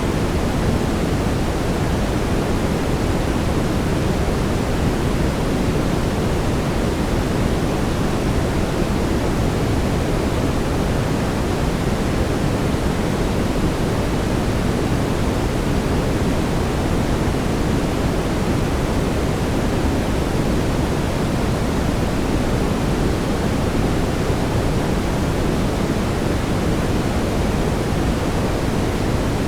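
Brown noise: a steady, even rumbling hiss weighted toward the low end, without change.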